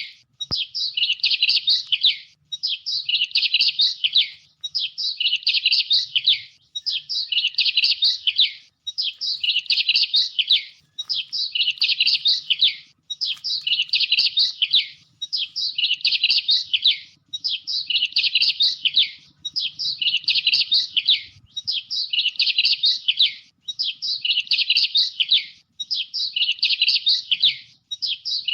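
Bird chirping in quick, high phrases, each about a second and a half long, repeating about every two seconds with short gaps between them.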